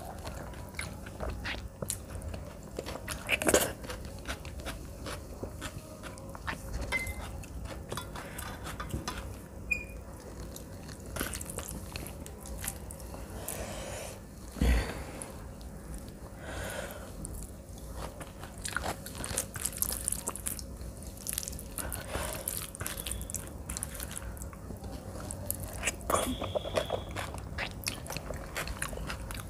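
Close-miked chewing and wet mouth sounds of a person eating rice and mashed vegetable bharta by hand, with the soft squish of fingers mixing the rice. A few louder clicks stand out, about three and a half seconds in, around fifteen seconds in and about twenty-six seconds in.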